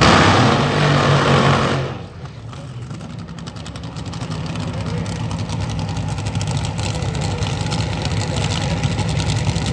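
Drag-racing car engines: a loud roar for the first two seconds cuts down sharply, then a steady, rapidly pulsing engine sound slowly grows louder.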